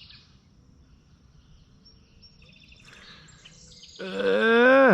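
Quiet outdoor background with faint bird chirps, then about four seconds in a man's loud, drawn-out wordless exclamation whose pitch falls sharply as it ends.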